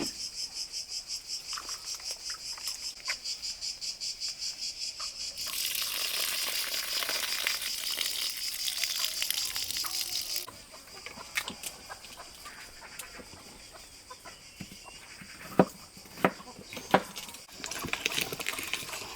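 Crickets chirping in a fast, even high pulse. About five seconds in, a brighter hiss covers the pulse for some five seconds. Then come scattered clicks and knocks, with three sharp knocks near the end.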